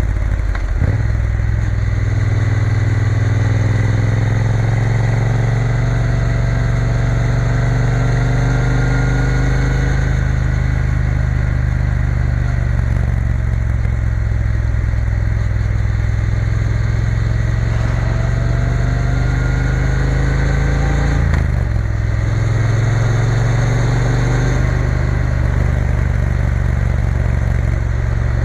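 Triumph Bonneville T120's parallel-twin engine running on the move, its note rising as it pulls. There are brief breaks in the note about a second in and again about three-quarters of the way through.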